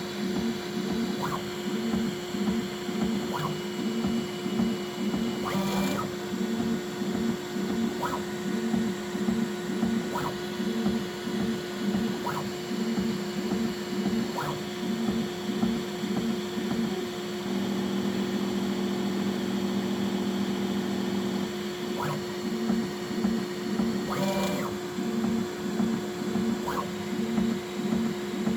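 Bambu Lab X1C 3D printer running its automatic bed levelling: stepper motors whirring in short, repeated moves as the toolhead probes the bed, with a light click about every two seconds over a steady fan hum. In the second half a steadier motor tone holds for a few seconds.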